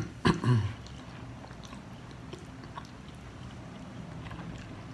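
A man chewing a mouthful of food, with a brief vocal sound in the first half second, then quiet chewing with a few faint clicks over a steady low hum.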